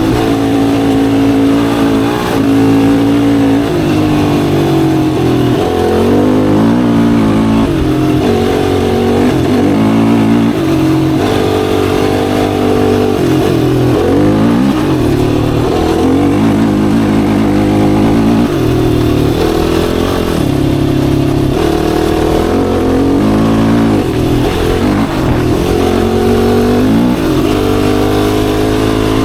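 Yamaha YFZ450R sport quad's single-cylinder four-stroke engine under way, revving up and dropping back again and again as the throttle is worked through the gears.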